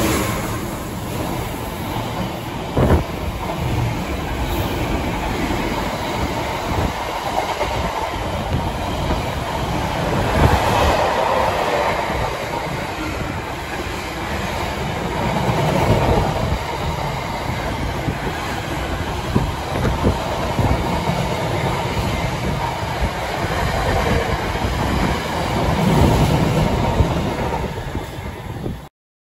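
Freightliner Class 66 diesel freight train passing close by at speed: the locomotive goes by at the start, then a long rake of container flat wagons rumbles and clatters over the rail joints. The sound cuts off abruptly near the end.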